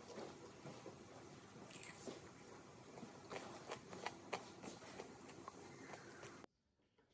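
A person chewing and biting waffle fries close to the microphone: soft crunches and wet mouth clicks. The sound drops off abruptly near the end.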